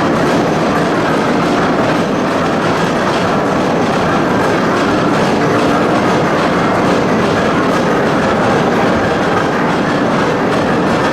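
Old steam-driven machinery running with a loud, continuous mechanical clatter that stays steady throughout.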